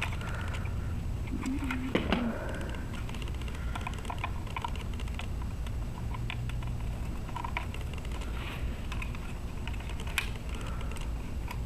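Scattered light clicks and taps of plastic parts as the brush-bar motor assembly is worked out of a Dyson vacuum's cleaner-head housing by hand, over a steady low hum.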